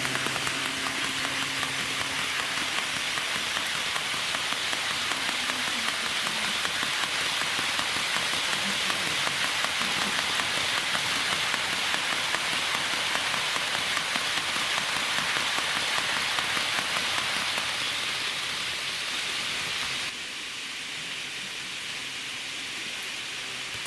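HO-gauge model freight train of two-axle Wamu 80000 boxcars rolling over the track's rail joints: a dense, steady clatter of tiny wheel clicks, like rain. A low hum sounds in the first few seconds, and the clatter steps down in level about 20 seconds in.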